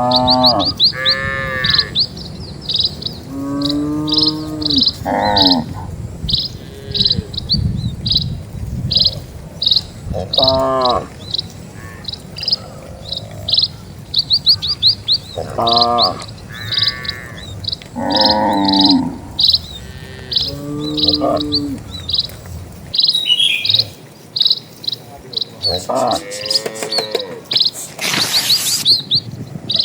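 A bird chirping the same short high note over and over, about twice a second, while cattle give short calls every few seconds. A low rumble underneath cuts out about two-thirds of the way through.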